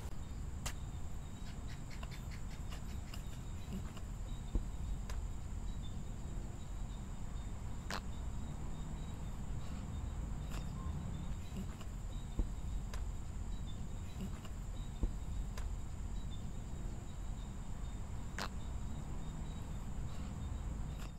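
Crickets trilling steadily in a continuous high-pitched chorus over a low background rumble, with a few faint clicks.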